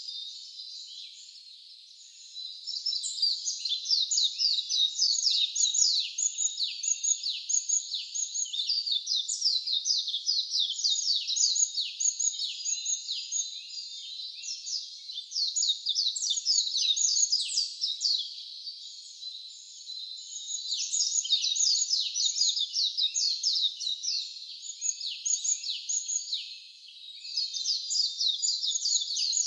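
A dense chorus of wild songbirds chirping: many quick, high, downward-slurred notes from several birds overlapping, swelling and easing off a few times.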